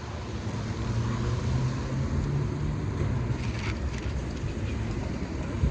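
Low, steady vehicle rumble heard from inside a car, with a hum that swells in the middle and fades, and a single click near the end.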